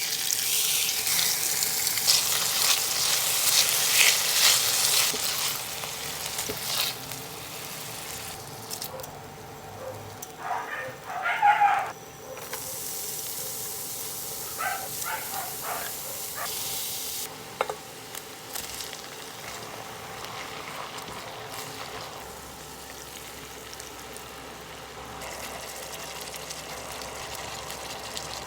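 Food sizzling in an oiled frying pan, loudest over the first five seconds and then quieter, with scattered clicks and scrapes of stirring and a short louder burst about eleven seconds in.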